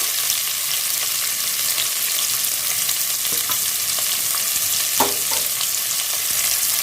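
Sliced onions sizzling in hot sunflower oil in a pressure pan as they are sautéed and stirred, with a steady hiss, a few light scrapes and one sharper knock about five seconds in.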